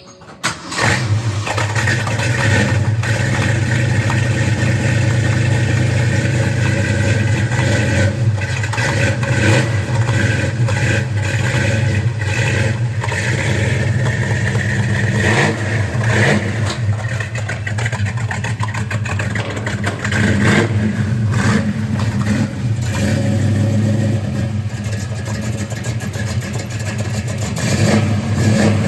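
A 1966 Ford Mustang GT's V8 starts from cold about half a second in, then runs through its fresh exhaust system, with a few brief revs.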